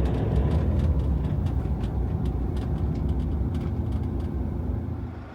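Camper van engine running with road rumble, easing off as the van slows to join the queue, with light scattered clicks over it. The sound drops away sharply near the end.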